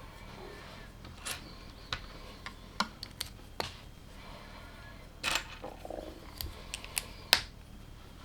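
Plastic LEGO pieces clicking and clattering as they are handled during building: a dozen or so sharp, irregular clicks, with a short rattle about five seconds in and a loud click near the end.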